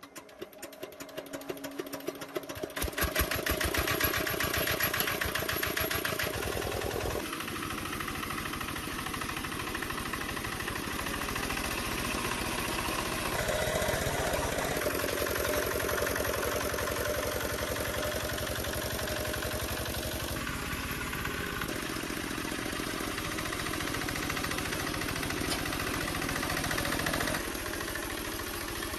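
Old tractor's diesel engine starting: the firing grows louder and quicker over the first three seconds as it catches, then the engine runs steadily, with a small drop in level near the end.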